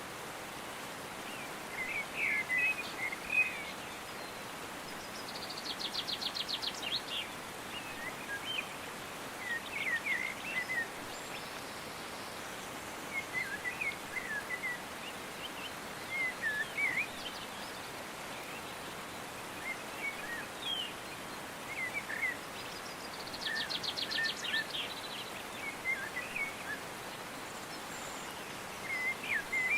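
Songbirds singing short chirping phrases every few seconds, with a fast, high trill twice, over a steady background hiss.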